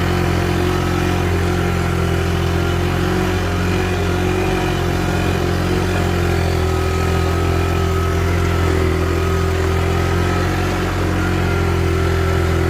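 Small engine of a ride-on vehicle running steadily at low speed while it is driven slowly, a continuous low hum with a faint higher whine over it.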